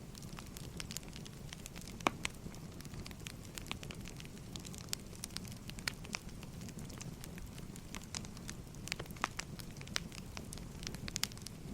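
Firewood burning and crackling: irregular sharp pops and snaps over a steady low rumble, with one louder pop about two seconds in.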